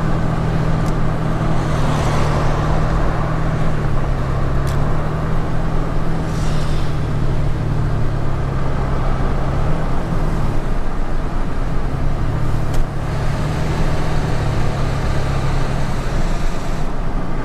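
Engine drone and tyre and road noise inside the cabin of a moving vehicle, with the engine note shifting a few times.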